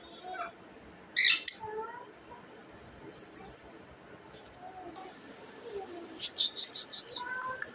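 Pet birds chirping: a few short, high chirps spaced out, then a quick run of chirps near the end.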